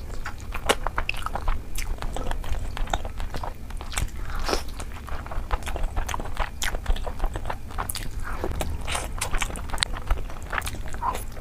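Close-miked eating sounds of curry and rice eaten by hand: chewing with irregular wet mouth clicks and smacks, over a steady low hum.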